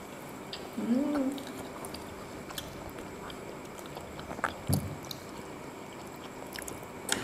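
Close-miked chewing of grilled sausage and other snack food, with small clicks of forks and skewers. A short hummed vocal sound about a second in, and a soft low knock a little past halfway.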